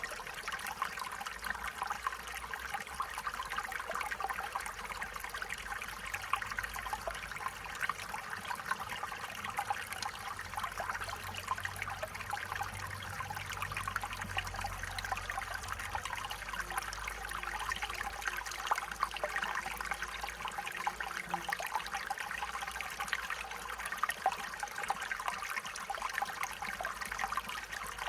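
Stream water trickling and babbling over stones, a steady splashing rush with many small bubbling flickers.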